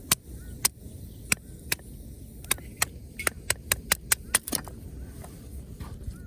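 Burning campfire wood crackling in sharp, irregular pops, with a quick run of snaps about three to four and a half seconds in.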